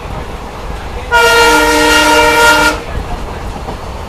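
Diesel locomotive's air horn (the train's WDP4) sounding one steady, loud chord blast of about a second and a half, over the low rumble and clatter of the coach running on the rails.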